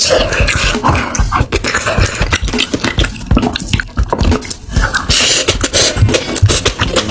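Close-miked chewing and mouth sounds of someone eating: many quick, irregular crunches, smacks and clicks.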